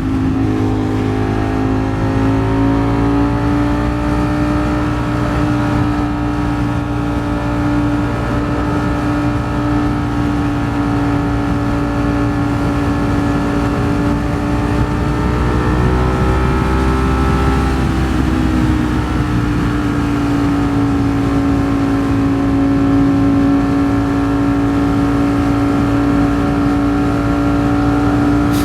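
Ducati Streetfighter V4 S's V4 engine holding a steady cruise at highway speed, its pitch rising briefly a little past halfway and settling back, over wind and road noise.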